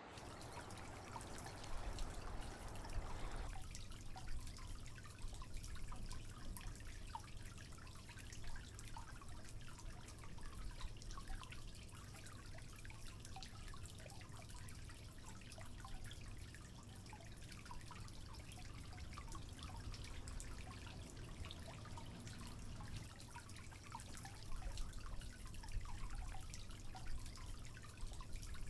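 Faint water trickling with many small irregular drips over a low steady rumble, a little fuller for the first few seconds.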